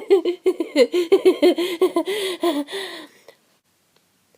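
A woman's laugh, a rapid run of high-pitched ha-ha pulses that trails off and stops about three seconds in.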